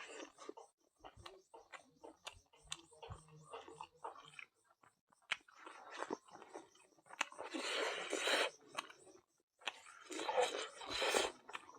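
Close-miked chewing of food in a mukbang: irregular wet clicks and smacks, with two louder stretches of munching about two-thirds of the way in and near the end.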